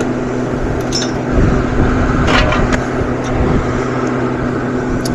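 A steady mechanical hum with a few short clicks and a brief scrape a little over two seconds in.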